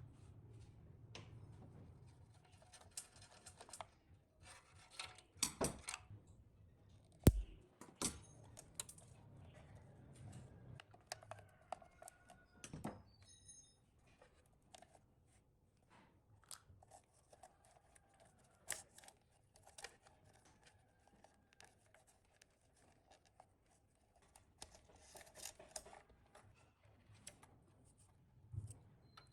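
Hand tools working on the metal parts of an old ceiling fan: scattered clicks and knocks with short bursts of scraping, and one sharp knock about seven seconds in.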